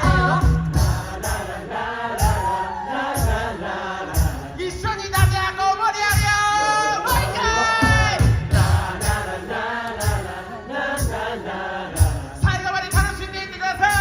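A cappella group singing in several-part harmony over a low bass part and a steady beat.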